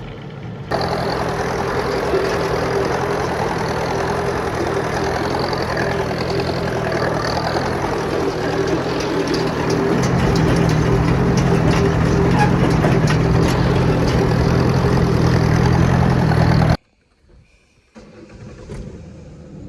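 Ford 860 tractor engine running steadily while pulling a Massey 10 square baler through a windrow. It gets louder about ten seconds in and cuts off abruptly near the end.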